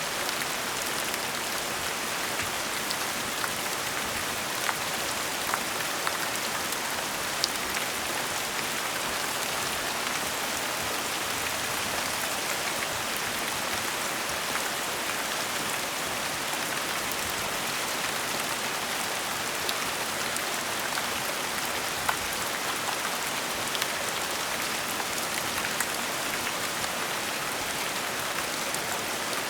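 Gentle steady rain, an even hiss with scattered individual drops ticking on a surface.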